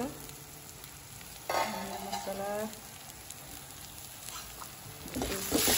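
Onion-tomato masala with a little water sizzling gently in a steel kadai on a gas stove. About a second and a half in, a brief voice sounds for about a second, and near the end the sizzling and stirring grow louder.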